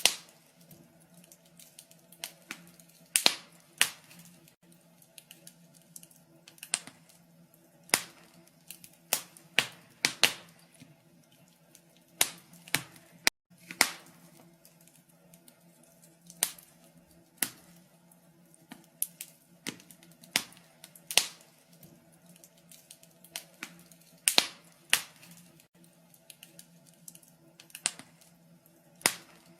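Wood fire crackling in a fireplace: irregular sharp pops and snaps, sometimes two or three close together, over a faint steady low hum. The sound cuts out for an instant about thirteen seconds in.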